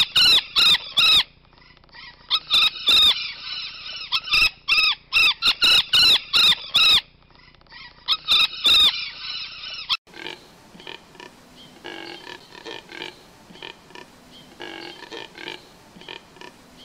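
Golden parakeet (ararajuba) calling loudly in runs of short calls, each rising and falling in pitch. About ten seconds in, these give way to a neotropic cormorant's (biguá) quieter, lower, rougher repeated calls.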